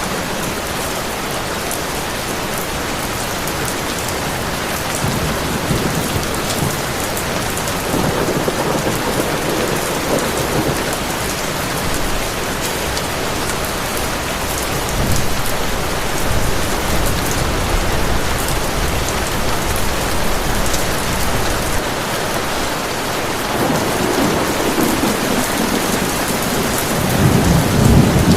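Heavy rain pouring steadily, with rolls of thunder: a low rumble about a third of the way in and a louder one building near the end.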